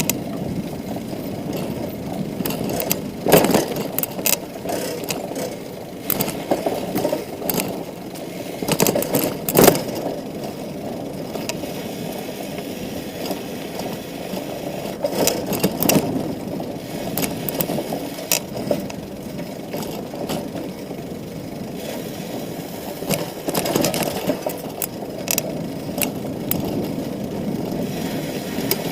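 Bicycle riding at speed: a steady rumble of tyres and wind, broken every few seconds by sharp rattles and clacks as the bike goes over bumps.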